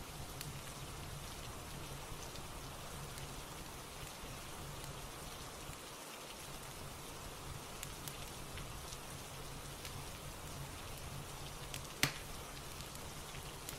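Steady rain with scattered soft crackles from a fireplace fire, and one louder pop about twelve seconds in.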